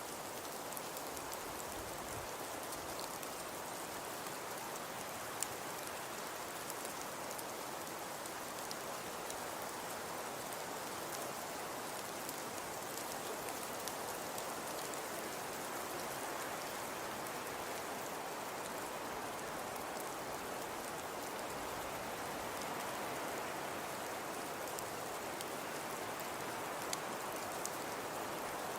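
Fireplace crackling steadily: an even hiss with scattered small pops and snaps.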